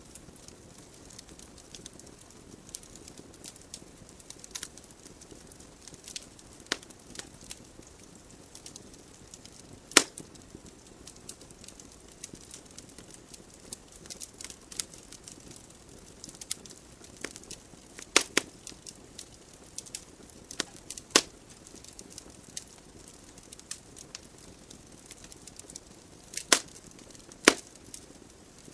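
Wood fire burning in a fireplace: a soft steady hiss of flames with irregular sharp crackles and pops from the logs, a few much louder pops standing out, around ten seconds in, about eighteen and twenty-one seconds in, and a pair near the end.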